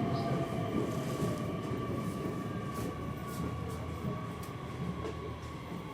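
Nishitetsu electric train running on the rails: a steady rumble with a thin electric motor whine that slowly falls in pitch. The whole sound grows gradually quieter, as when the train is slowing down.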